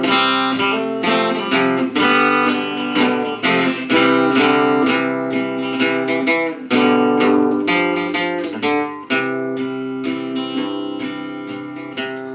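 Acoustic guitar with chords strummed and let ring in a steady rhythm.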